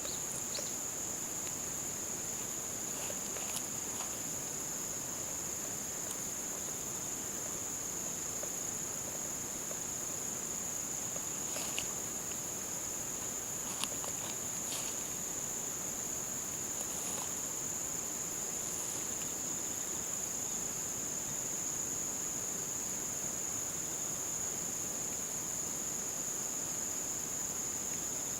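Steady high-pitched chorus of crickets, unbroken, with a few brief faint chirps over it.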